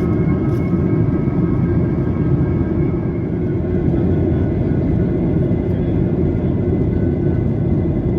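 Steady roar inside a Boeing 737-800's cabin during climb: its CFM56-7B jet engines and the airflow past the fuselage, with a few faint steady high tones above the deep rumble.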